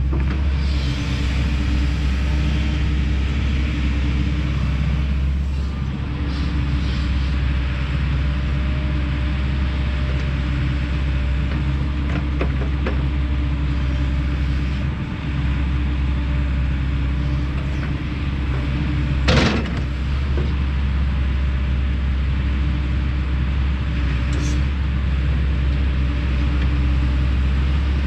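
Kobelco SK210 hydraulic excavator's diesel engine running steadily under work, with one sharp knock about two-thirds of the way through.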